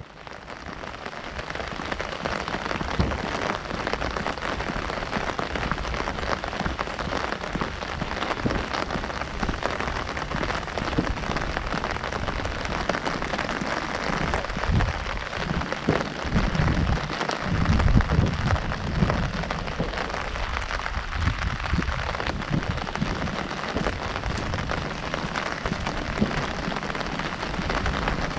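Heavy rain drumming steadily on an umbrella, fading in at the start, with a few low thuds about halfway through.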